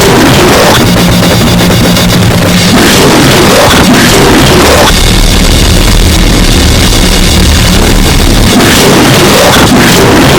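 Brutal death metal / noisecore music with no vocals: drum kit under a dense, heavily distorted wall of noise and sustained low notes, very loud, with the low notes changing about halfway through.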